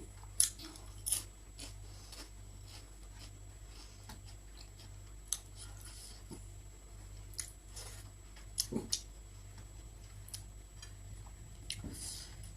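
A person eating close to the microphone: a few sharp crunches and clicks scattered through the stretch, with a quick cluster of them near the middle, over a faint steady hum.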